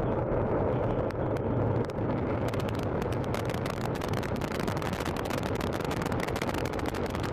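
Antares rocket's first-stage engines at liftoff: a loud, steady, deep rumble that turns into dense crackling from about two and a half seconds in.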